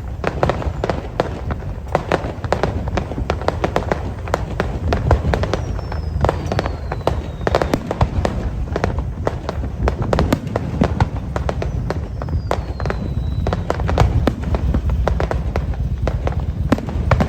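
Aerial fireworks display: a dense, irregular barrage of bangs and crackles over a continuous low rumble. Thin falling whistles are heard three times.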